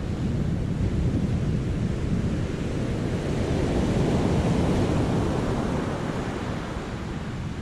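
Sea waves surging and breaking in a rocky cove: a steady wash of surf that swells to a peak about halfway through, then ebbs.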